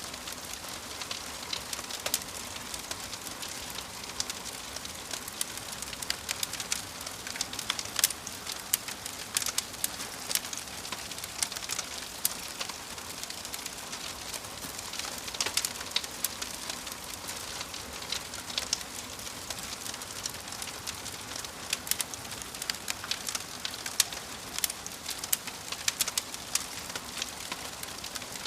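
Wood fire crackling in a fireplace: frequent sharp, irregular pops and snaps over a steady hiss.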